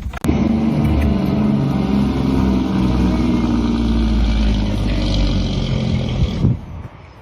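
A motor vehicle engine running, its pitch easing slightly lower, until it stops suddenly about six and a half seconds in.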